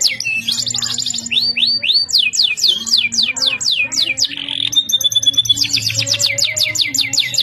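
Domestic canary singing vigorously: fast trills made of rapid repeated downward-sweeping notes, broken a little after the middle by a held whistled note before another fast trill.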